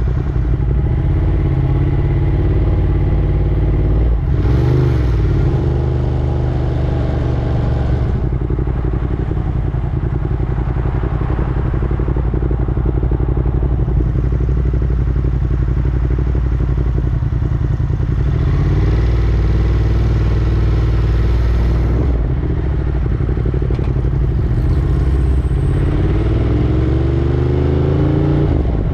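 Ducati Monster 1200's L-twin engine running on the move, its pitch shifting with the throttle and climbing near the end.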